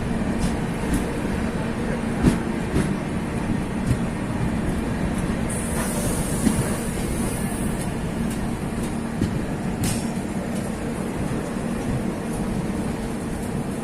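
Moving passenger train heard from aboard: a steady rumble of the coach running on the rails, with scattered clacks from the wheels over the track. A short hiss rises and falls about six seconds in.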